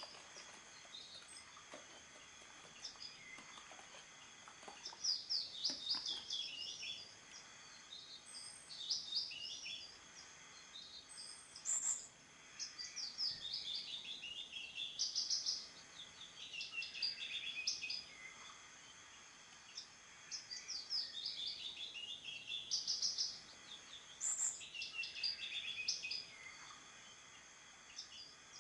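A songbird singing, repeating a quick warbled phrase that falls in pitch, about every three seconds. Faint steady high tones run underneath.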